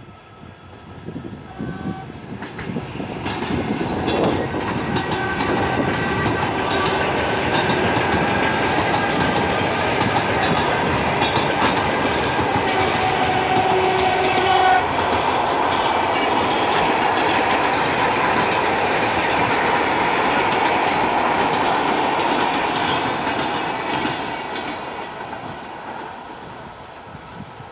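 A train passing: it builds up over the first six seconds, runs by steadily for about seventeen seconds, then fades away. A brief steady high tone sounds about halfway through.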